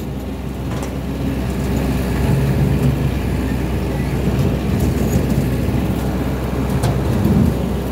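Small tractor's engine running steadily under load while it cuts through brush and vines, with a few short sharp cracks.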